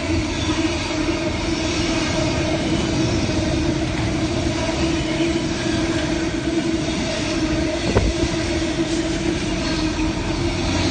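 A train running, a steady hum with rail and wheel noise, and a single sharp knock about eight seconds in.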